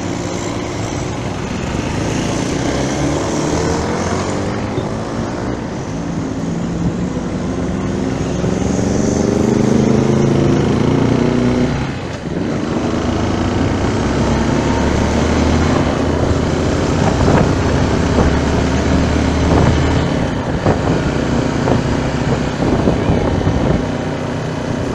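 A motor vehicle's engine running in traffic under a steady rush of wind noise, its pitch climbing over the first ten seconds, dipping briefly about twelve seconds in, then holding steady again.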